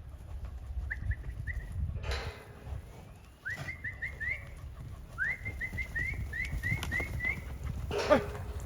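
A bird singing repeated series of short rising whistled notes, about four a second, the phrases growing longer. A brief clatter comes about two seconds in, and a louder one, which sounds metallic, near the end.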